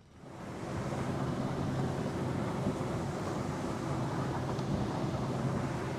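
Yamaha 115 hp four-stroke outboard running steadily with the boat underway, a steady low engine hum under a broad wash of water and wind noise. The sound rises in over the first second.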